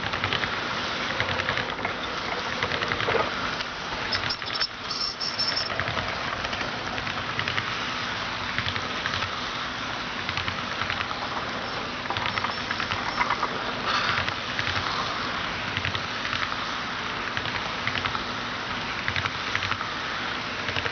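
HO scale model train running on its track: a steady rattling clatter of small metal wheels on rail, dense with light clicks, over a faint steady motor hum.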